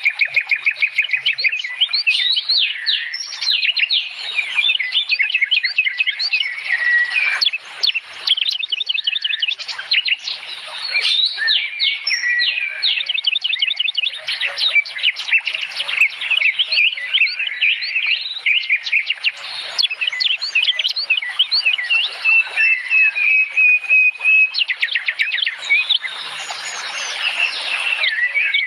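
Songbird singing a long, varied song of fast chirps, rapid trills and short whistled notes, with hardly a pause.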